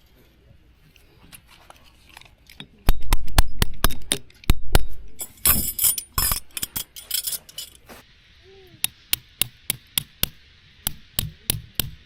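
A run of sharp clinks and knocks of hard objects, coming more evenly at about two a second in the second half. A steady hiss joins partway through.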